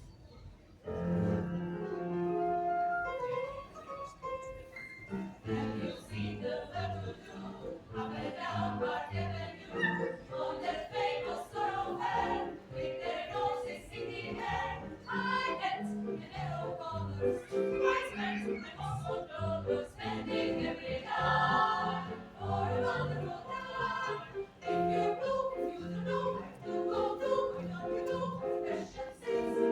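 A choir singing a musical piece, with low accompanying notes beneath the voices; it starts about a second in.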